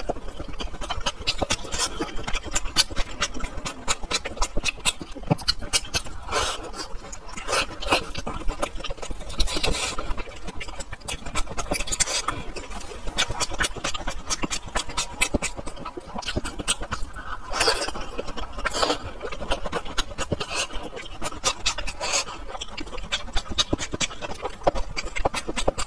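Close-miked chewing of steamed beef dumplings: a steady run of wet mouth clicks and lip smacks, with a few louder wet bursts of sucking and biting.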